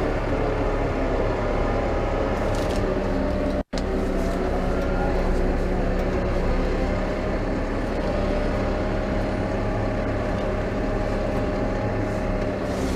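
New Holland T5.120 tractor's four-cylinder diesel engine running steadily with the plough lifted, its pitch wavering slightly; the sound cuts out for an instant about four seconds in.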